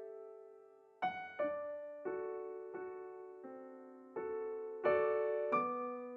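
Slow solo piano background music: single notes and soft chords struck about once every half to three-quarters of a second, each ringing and fading before the next.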